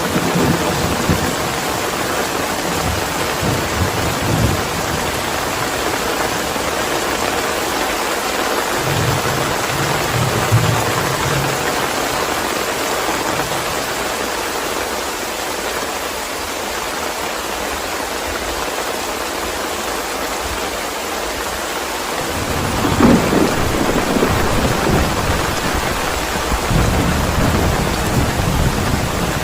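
Steady heavy rain with rolling thunder: low rumbles in the first few seconds and again around ten seconds in, a lull, then a louder thunderclap about two-thirds of the way through that rumbles on to the end.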